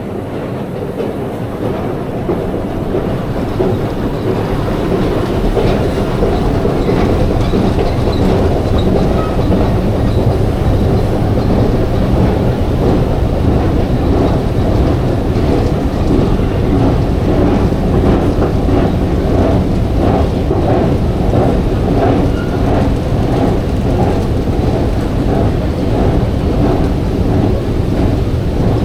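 New York City Subway Q train running on its rails: a loud, steady rumble that grows louder over the first few seconds, with a regular clickety-clack of the wheels through the second half.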